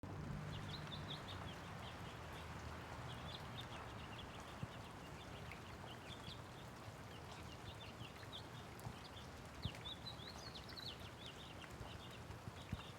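Steady patter of light rain on a wet road, with many small birds chirping and calling throughout. A few sharp ticks stand out, and a low hum fades in the first couple of seconds.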